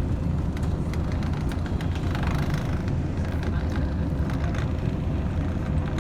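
Interior of a Scania L113CRL bus under way: steady low rumble of its rear-mounted diesel engine and drivetrain, with scattered rattles and clicks from the old body and fittings.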